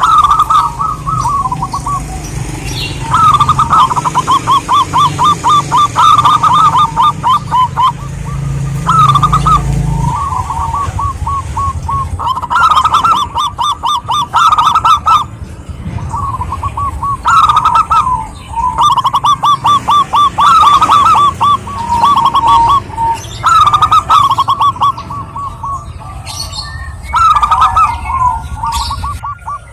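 Zebra doves (perkutut) cooing: phrase after phrase of rapid, staccato coo notes with short pauses between the phrases.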